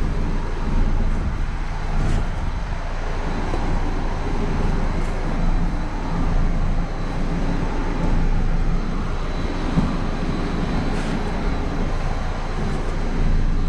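Steady low machine drone with a constant hum, the running equipment of a car wash, with a few faint clicks.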